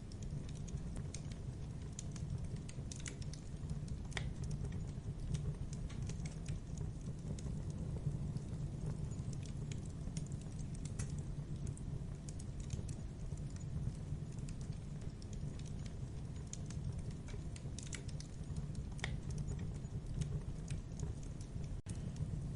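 Wood fire in a fireplace crackling, with irregular sharp snaps and pops over a steady low rumble of the flames.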